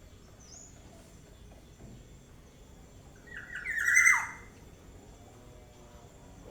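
Young black-naped oriole giving one loud, harsh call about a second long a little past halfway, after a faint high chirp near the start.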